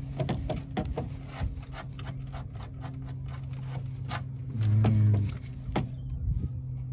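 Rubber door seal being pushed and worked by hand onto a truck cab's door-frame flange: irregular taps, knocks and rubbing scrapes. About five seconds in there is a brief louder low drone, with a steady low hum underneath throughout.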